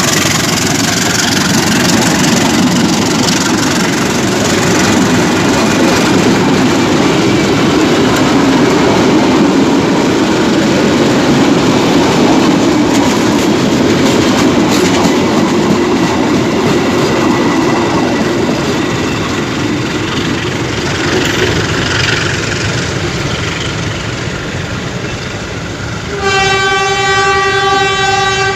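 A train passing with a continuous rumble of wheels on the rails. Near the end its horn sounds one steady blast of about two seconds.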